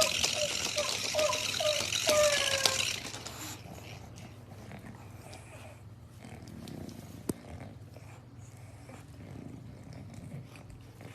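English bulldog puppy whining in short high falling squeals, several a second, for about the first three seconds. Then it goes quiet except for a single click about seven seconds in.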